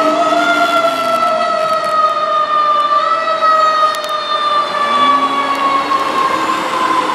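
Fire engine's Federal Q2B mechanical siren wailing, its pitch sliding slowly down as the siren winds down.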